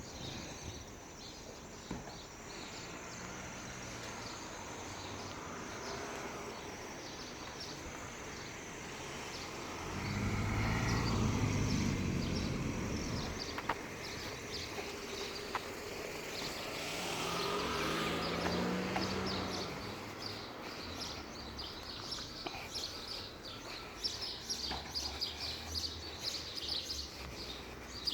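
Small birds chirping, with quick high chirps running throughout and getting busier near the end, over outdoor background noise. Two louder low rumbles of passing traffic swell and fade, one about a third of the way in and another a little past the middle.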